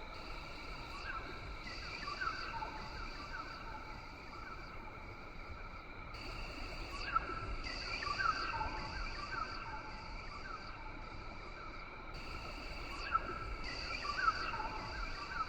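Rainforest ambience: a steady chorus of insects droning at several pitches, with short sliding chirps from birds or frogs repeating in clusters. A higher insect buzz swells in about six seconds in and again around twelve seconds, each time for a few seconds.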